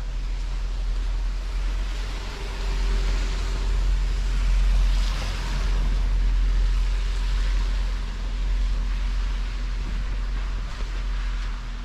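City street traffic: a steady rumble of vehicles with one passing loudest around the middle.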